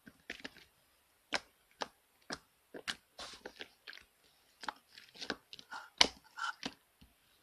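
Marbling slime being squeezed and stretched by hand, making irregular sticky pops and clicks.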